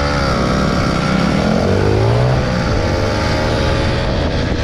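Small motorbike engine running under way. The revs drop about a second and a half in, climb back, then hold steady.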